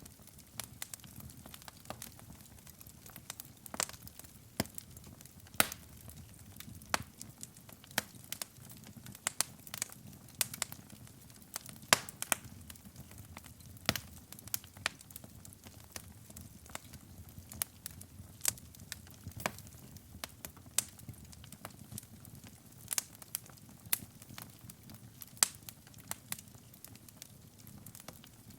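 Wood fire in a fireplace crackling, with frequent irregular sharp pops and snaps over the low, steady rush of the burning logs.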